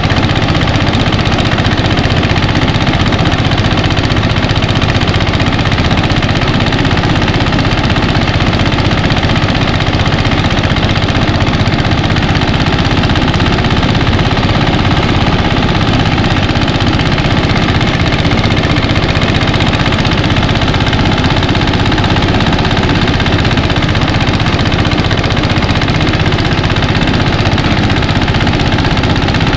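Mini rice threshing machine running steadily, its engine going without a break or change in speed.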